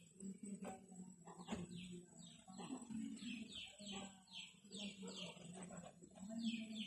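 A bird calling in a fast run of short descending notes, about three a second, starting about a second and a half in. A few soft knocks come before it, near the start.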